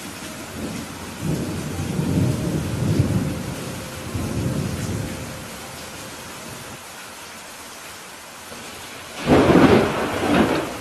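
Steady rain falling during a thunderstorm. A low rolling rumble of thunder fills the first half, and a louder, sharper thunderclap comes about nine seconds in.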